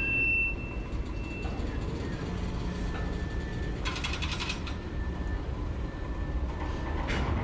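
Freight train of open hopper cars rolling slowly past, with a steady low rumble. A high wheel squeal fades out in the first second or two, and there is a brief metallic clatter of wheels and couplers about four seconds in and again near the end.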